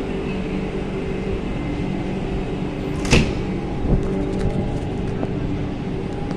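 Vande Bharat Express electric train set standing at the platform, its equipment giving a steady hum. Two sharp knocks come about three and four seconds in.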